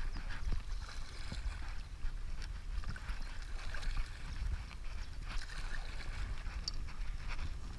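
River whitewater rushing and splashing around a stand-up paddleboard, with a gusty low rumble of wind on the microphone.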